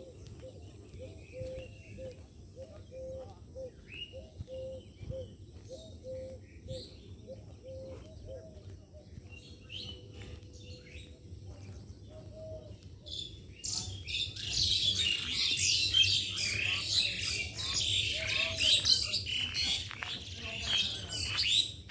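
Birds calling in trees: a steady series of short low notes, about one and a half a second, with scattered higher chirps. About fourteen seconds in, a loud burst of dense chattering and chirping takes over and runs until near the end.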